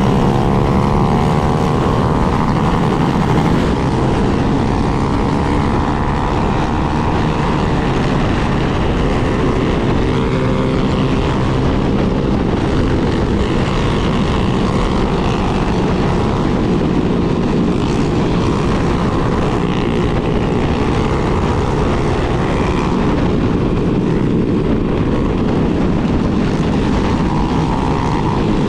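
Yamaha Lander 250's single-cylinder four-stroke engine running steadily while riding. Its pitch shifts in the first few seconds.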